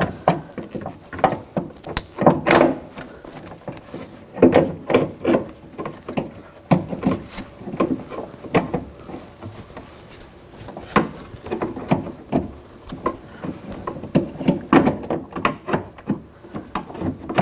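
Irregular knocks, clicks and scraping as a door handle reinforcement is twisted around the lock rod and worked into position inside a BMW X5 front door shell.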